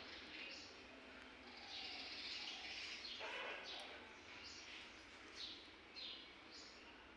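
Birds chirping faintly: short, high, downward-sliding calls repeating a little under once a second, with a longer burst of chatter about two seconds in.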